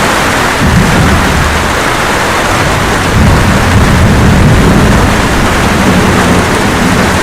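Steady light rain with thunder rumbling low underneath. The rumble swells about a second in and again from about three to six seconds.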